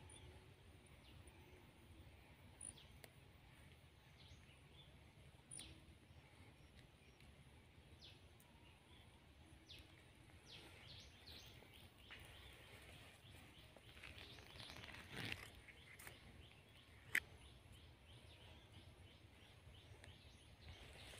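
Very faint outdoor ambience with scattered short bird chirps throughout. A brief swell of noise comes about two-thirds of the way through, followed by one sharp click.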